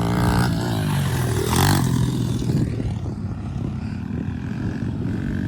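Small pit bike engine running steadily. There is a short rush of noise about a second and a half in.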